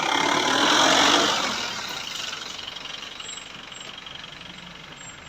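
A motor vehicle passing close by: its engine and road noise swell, peak about a second in, then fade away over the next couple of seconds.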